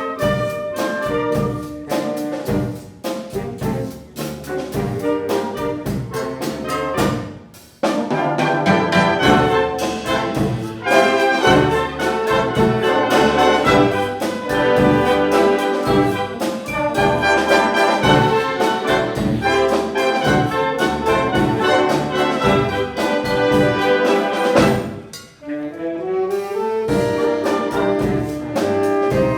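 Wind band playing a Cuban-style piece, trumpets and trombones leading over a steady percussion beat. The band drops back briefly about seven seconds in. Near the end it pauses and comes back in with a rising slide.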